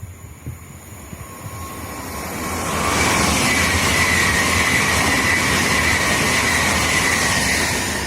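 A passenger train passing close by at speed: rushing rail and wheel noise builds over the first few seconds, then stays loud, with a high whine that sinks slightly in pitch as it passes.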